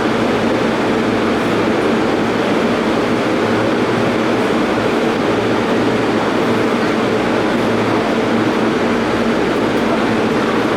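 Steady running noise of a JR Keiyo Line commuter train heard from inside the car: an even, loud rumble of wheels on rails with no sudden changes.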